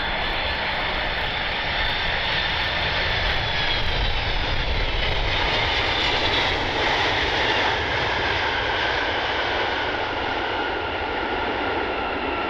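Jet airliner passing close by, its engines giving a loud, steady rush with a whine whose pitch falls as it goes past.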